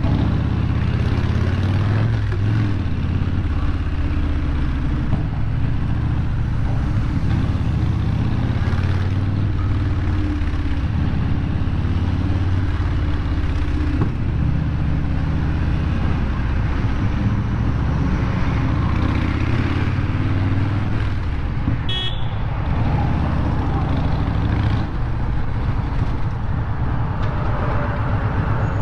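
Harley-Davidson motorcycle's V-twin engine running steadily at low speed in slow city traffic, with surrounding traffic noise. A short, sharp high-pitched sound cuts in once, about three-quarters of the way through.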